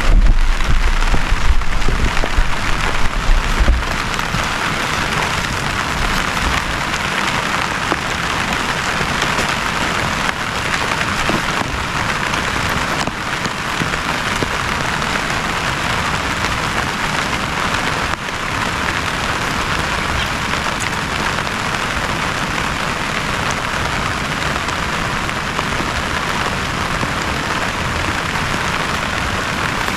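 Heavy rain falling steadily, a dense even patter. A deep low rumble underneath dies away about four seconds in.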